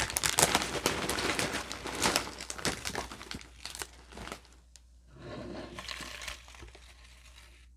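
Crinkly wrapping being crumpled and pulled open, a dense crackling for about four seconds that then eases off into a few quieter rustles.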